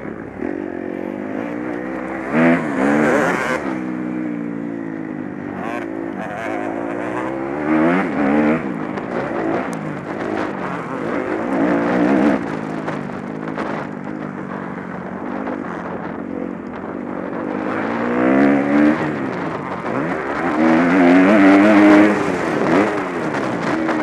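Motocross bike engines revving up and down over and over as the bikes ride the track, with several louder surges as bikes come close, the loudest near the end.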